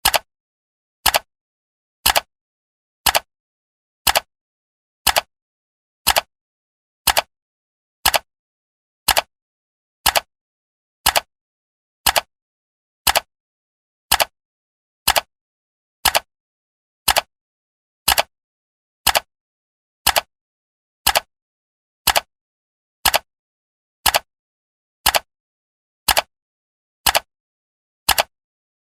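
Clock-tick sound effect of a countdown timer: one sharp tick each second, evenly spaced, with silence between ticks.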